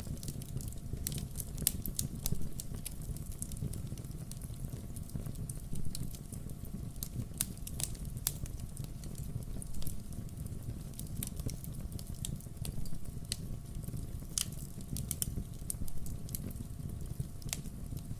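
Burning firewood crackling, with irregular sharp pops and snaps over a steady low rumble of the fire.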